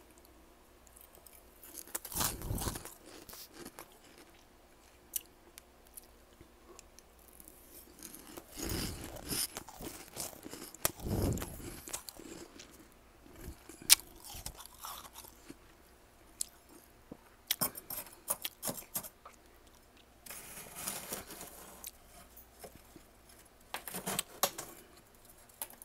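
A person chewing mouthfuls of freezer frost close to the microphone: several separate bursts of crisp crunching, with a few sharp clicks in between.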